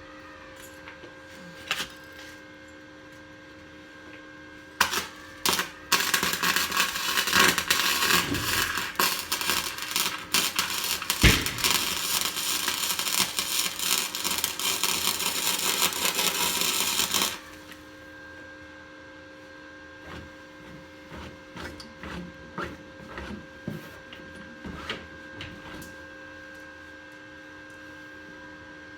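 Flux-core welder arc crackling: a few brief arc strikes, then a continuous weld bead of about eleven seconds that cuts off suddenly. A steady hum sits underneath.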